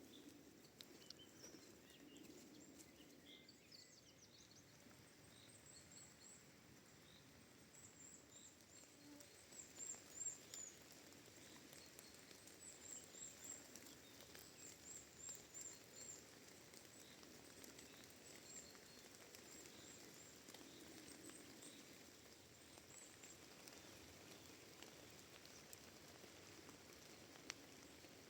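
Faint birdsong over a soft steady hiss: a small bird sings several runs of quick, very high, short notes, with a few lower chirps near the start.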